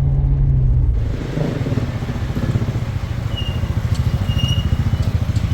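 Motor vehicle engine running steadily with a low hum. About a second in it changes abruptly to a rougher, rapidly pulsing rumble.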